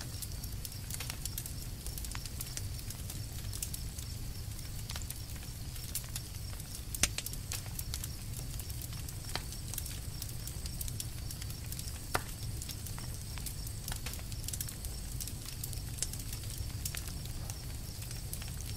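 Campfire crackling and popping, with many small irregular snaps and two sharper pops about seven and twelve seconds in, over a steady low rumble.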